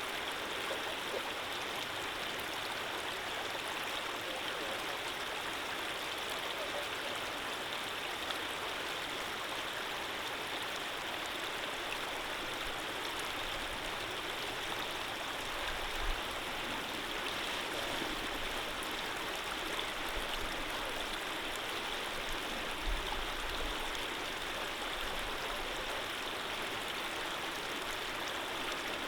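Running water flowing steadily, an even rushing hiss, with a couple of faint low bumps about halfway through.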